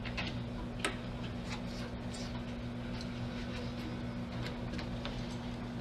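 Scattered light clicks and ticks, irregularly spaced, over a steady low electrical hum.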